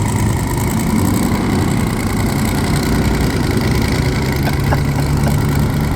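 Twin-turbo LS V8 in a Mercedes E63 AMG, its loud exhaust running steadily at low throttle with a deep, even hum.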